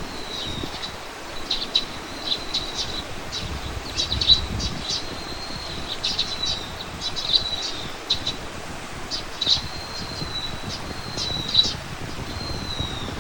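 Small birds chirping: quick clusters of sharp, high chirps mixed with thin, drawn-out whistles, repeating every second or so over a steady background hiss.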